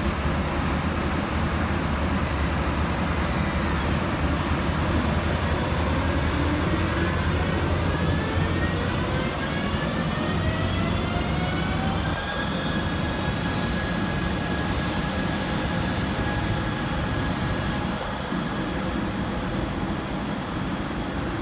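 Passenger train running through the station over a steady low rumble, its motors whining in several tones that rise in pitch for about ten seconds as it picks up speed, then hold level.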